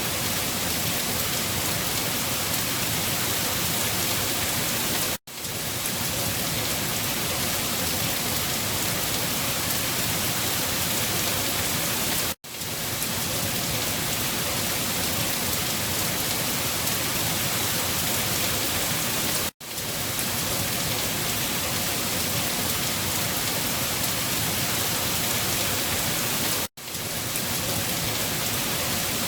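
Steady rain falling, an even hiss of drops without thunder, cut off briefly to silence about every seven seconds.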